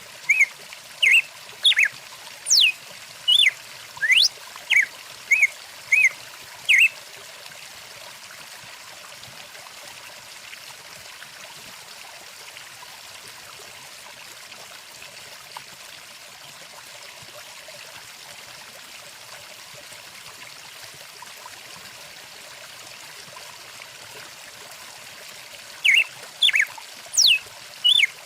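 Steady trickle of a flowing stream, with a songbird calling in a quick series of short, sweeping whistled notes for the first several seconds and again near the end.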